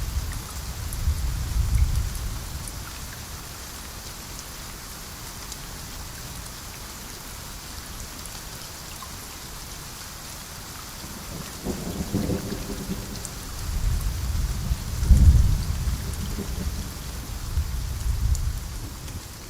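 Steady rain falling, with thunder. A rumble dies away in the first few seconds, then a long roll of thunder builds a little past halfway, peaks in several swells, and fades near the end.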